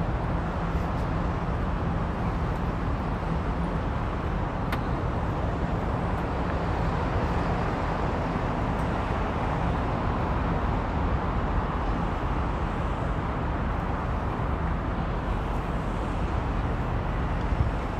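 Steady outdoor background noise: an even hiss over a low hum, with no distinct events.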